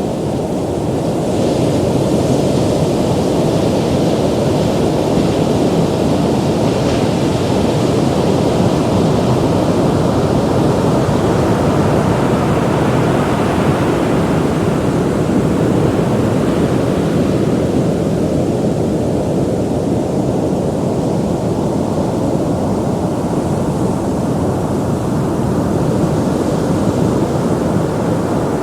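Ocean surf: a continuous low rush of waves, with a higher hiss of water washing in that swells and fades twice.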